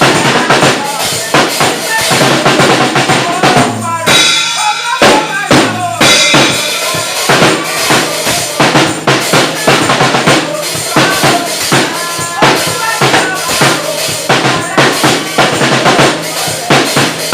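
Loud music driven by a drum kit playing a busy, steady beat of bass drum, snare and rimshots, with a brief break about four seconds in.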